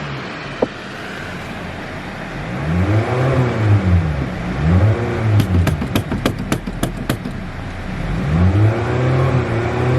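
Car engine revved repeatedly in short blips, the pitch rising and falling each time, idling lower in between. A quick run of sharp clicks or pops comes in the middle.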